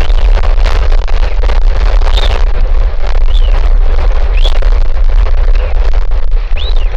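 Strong wind buffeting the microphone: a loud steady rumble with rushing noise. From about two seconds in, a bird gives five short high chirps, each rising and falling, about a second apart.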